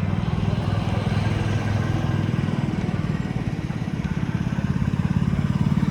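A vehicle engine idling close by, its exhaust giving a steady, rapid low pulsing that grows a little louder near the end.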